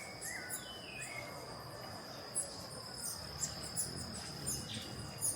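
A steady, high-pitched insect trill, with short, high chirps from hummingbirds scattered through it and a few swooping whistled notes near the start.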